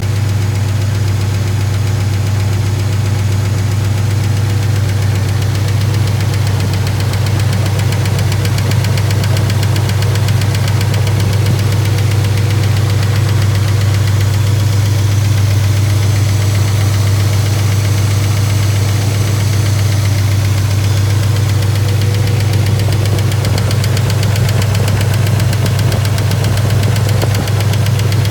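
1955 Packard V8 running steadily with a fast, even valve-train tick over the engine note: a lifter tick that persists after the lifters were replaced.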